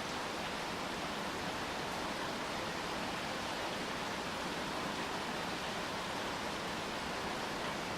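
Steady rain falling, an even hiss with no breaks or distinct drips.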